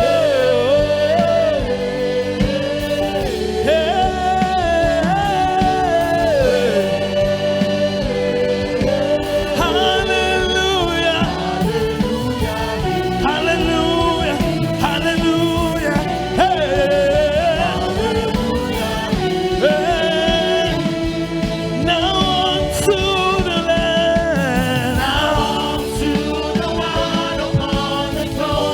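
Gospel singing by a worship team over instrumental backing, with a continuous sung melody.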